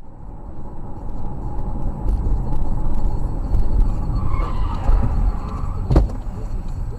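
Car driving, picked up by a dashcam: steady low engine and road rumble that swells over the first couple of seconds, with one sharp knock about six seconds in.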